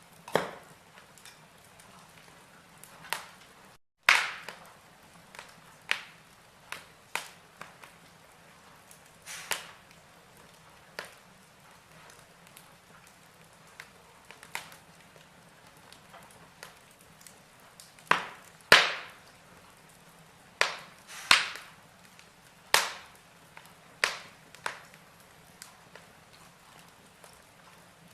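Wood logs burning in a fireplace, crackling with irregular sharp pops over a faint steady hiss. The loudest pops come about four seconds in and again around eighteen to nineteen seconds. There is a brief dropout to silence just before the four-second mark.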